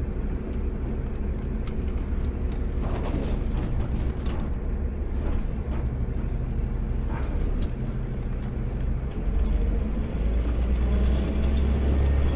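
Automated side-loader garbage truck running, its engine a steady low hum with scattered knocks and clatter. About nine seconds in the engine gets louder and a tone rises in pitch.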